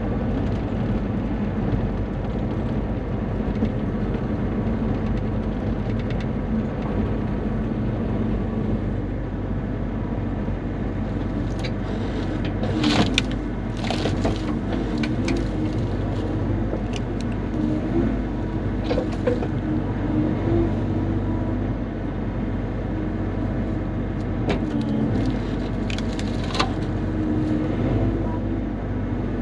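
Bobcat E35 mini excavator's diesel engine running steadily while working, with sharp knocks and clanks from the bucket handling spruce logs, most of them in the middle and later part.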